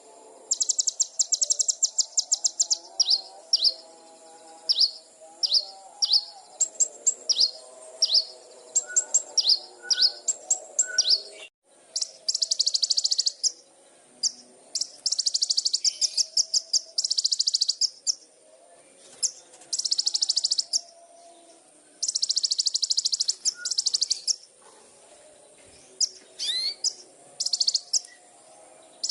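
Small songbird singing: bursts of very rapid high trills about a second long, alternating with runs of sharp, quick downward-sweeping whistled notes, with a brief break near the middle.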